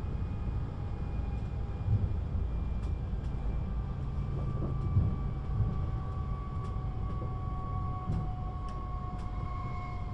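Siemens Desiro HC electric multiple unit running between stations, heard from inside the passenger cabin: a steady low rumble of wheels on track under the whine of the traction drive, whose several tones slowly fall in pitch. A few faint clicks come through.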